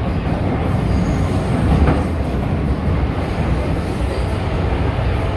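MTR M-Train electric multiple unit running on the Tseung Kwan O line: a steady, continuous rumble of wheels on rail.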